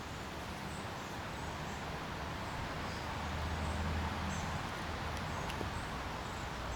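Steady rush of the fast, foaming Katun mountain river, with a low hum that swells about halfway through and a few faint bird chirps.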